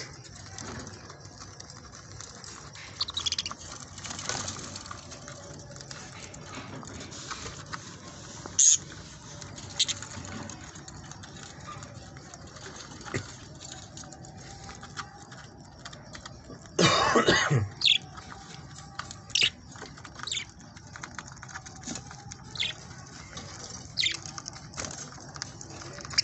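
A flock of budgerigars chirping: scattered short, high calls over a steady background hiss, with one loud burst about a second long roughly two-thirds of the way through.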